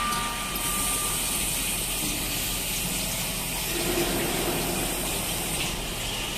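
Swiss-type CNC lathe running through a cut, with a steady rush of coolant flowing over the work and a low machine hum underneath.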